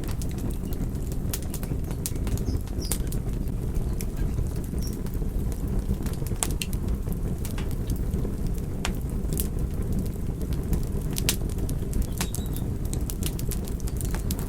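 Wood fire burning with a steady low rumble and frequent, irregular sharp crackles and pops from the burning wood.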